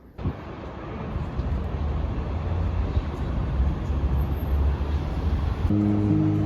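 Low rumbling street traffic noise from passing vehicles, growing steadily louder. Background music with held notes comes in near the end.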